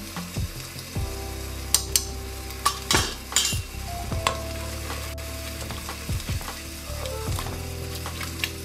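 Onion-tomato masala sizzling in oil in a stainless steel pressure cooker while a wooden spoon stirs it, with a few sharp knocks along the way. The masala is being fried down (bhuna) for a curry.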